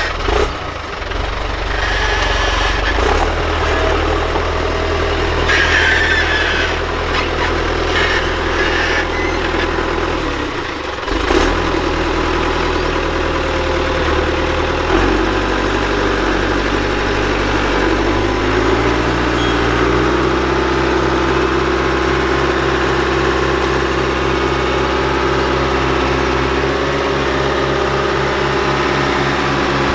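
Tractor engine running steadily. Its note drops out briefly about a third of the way in, shifts about halfway, then settles into an even run for the rest.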